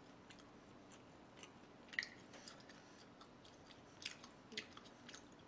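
Quiet close-miked chewing, with a scattering of short wet mouth clicks, the sharpest about two seconds in and a few more around four to five seconds in.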